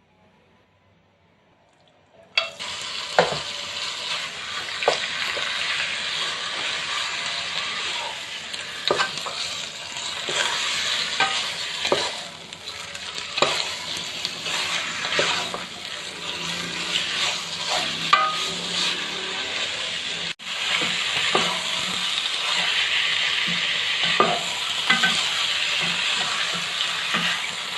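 Food sizzling in hot oil in a pan, starting suddenly about two seconds in as it goes into the pan, with a spatula knocking and scraping against the pan every second or two as it is stirred.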